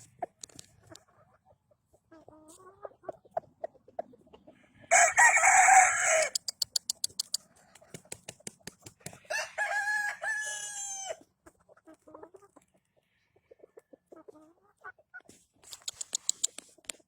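Gamefowl rooster crowing once, about halfway through, with chickens clucking around it. Before the crow comes a loud, harsh squawk, the loudest sound here, followed by a quick run of clicks.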